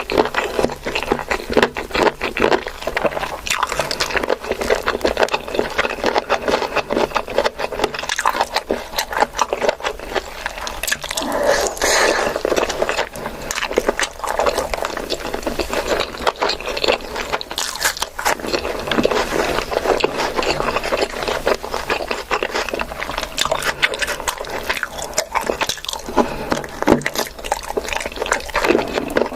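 Close-miked eating: continuous chewing and wet mouth sounds, a dense run of small smacks and clicks.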